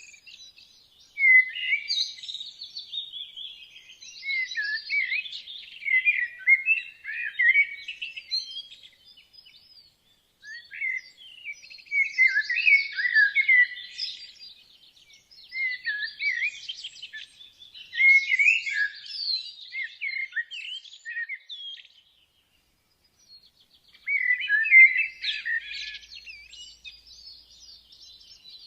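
Woodland songbirds singing in phrases of a few seconds each, high and chirpy, with a brief pause about a third of the way in and another short lull about three quarters through.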